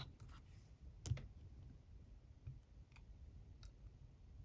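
A few quiet clicks and light taps of small craft tools being handled on a desk, the loudest about a second in.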